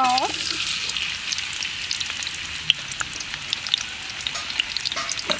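Sliced garlic, red onion and ginger sizzling as they hit hot oil in a large metal wok: a steady hiss with scattered crackling pops, loudest just as they go in.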